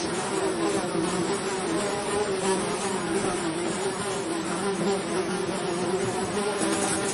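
A swarm of flies buzzing in a dense, steady drone of many overlapping wingbeats, their pitches wavering slightly.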